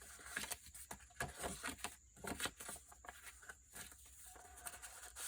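Paper pages and card of a handmade junk journal being handled and turned, giving a string of soft, irregular rustles and crinkles.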